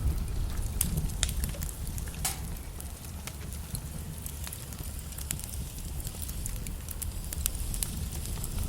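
Wood logs burning in a fireplace: sharp crackles and pops over a low, steady rumble of flames, with one louder pop a little over two seconds in.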